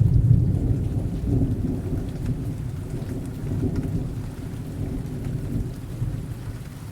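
Thunderstorm: a low rolling rumble of thunder, loudest at the start and slowly dying away, over steady rain falling.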